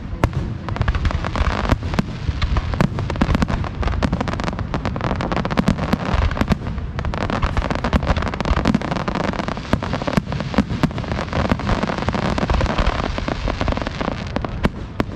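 A fireworks display heard from close to the launch site: a dense, continuous barrage of booming shell bursts and fast crackling, many bangs a second with no let-up.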